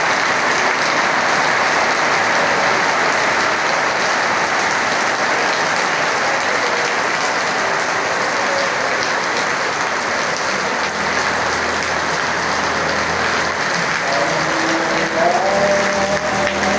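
Steady heavy rain falling, a dense even hiss. Faint low tones come in during the last few seconds.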